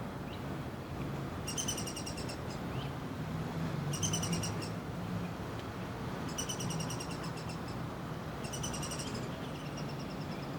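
Young downy woodpecker calling: about five short trains of rapid, evenly spaced high notes, each under a second long, a couple of seconds apart, the last one fainter and lower in pitch.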